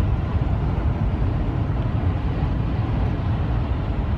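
Steady low rumble of vehicle and road noise, heaviest in the bass, with no distinct events.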